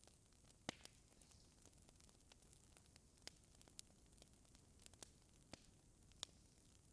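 Faint crackling of a fireplace fire: a soft steady hiss with sharp pops scattered irregularly, a handful over a few seconds.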